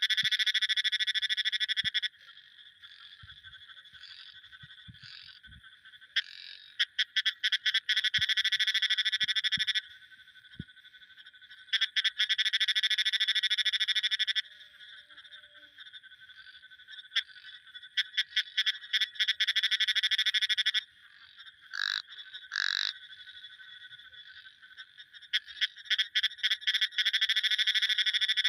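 Frog calling in repeated bouts of rapid, high-pitched pulsed trills, each lasting a few seconds, with quieter pauses between. Two short separate calls come about three-quarters of the way through.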